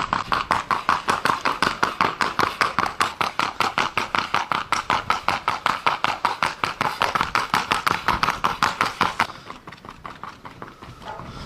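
Rapid, very even hoofbeats of a Colombian Criollo horse moving at a gait, about six or seven sharp beats a second, stopping about nine seconds in.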